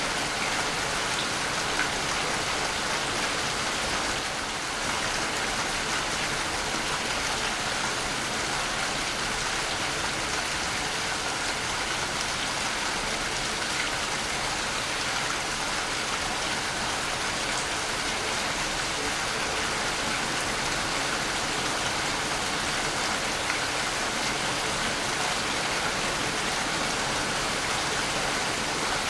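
Waterfall: a steady, unbroken rush of falling water, an even hiss with most of its weight in the upper range.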